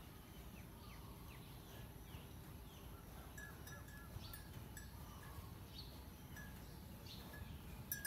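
Faint small birds chirping, with short, quick falling notes scattered through, over a low steady rumble.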